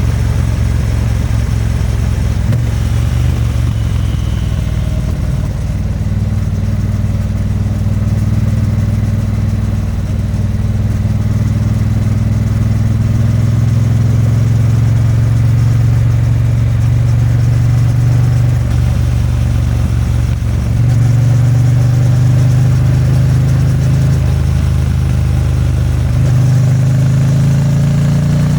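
2022 Triumph Bonneville T100's 900 cc parallel-twin engine and exhaust running steadily while riding. Its note dips and shifts briefly a few times, about two-thirds of the way through and again near the end.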